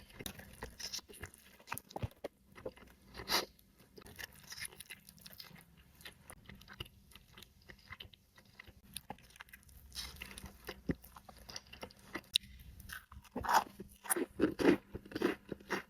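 Close-miked eating of a Chipotle burrito: biting and chewing with many small crunchy clicks and wet mouth sounds. The sounds grow denser and louder near the end.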